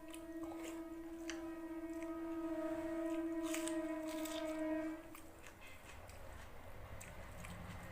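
Crunchy bites and chewing of food, with a long, steady horn-like tone held in the background that stops about five seconds in.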